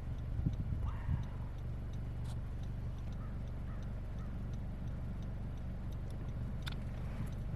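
Steady low rumble of a car engine idling, heard from the car, with a faint regular ticking over it.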